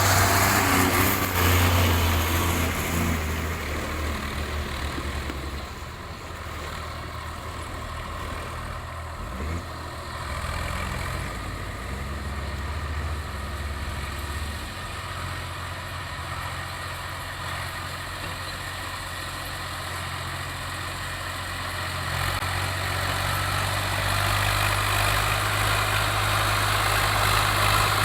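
Diesel tractor engine running steadily with a low hum, louder at the start and again toward the end, quieter in between.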